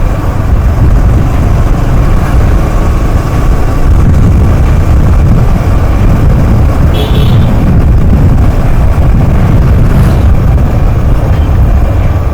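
Wind buffeting the microphone and road noise on a moving motorcycle: a steady, loud low rumble.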